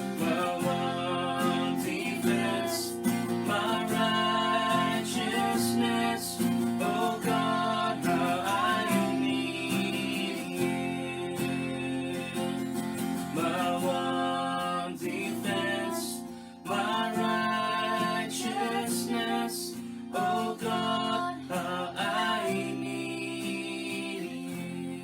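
A worship song: acoustic guitar strumming under a singing voice, in phrases with a short break in the middle, fading near the end.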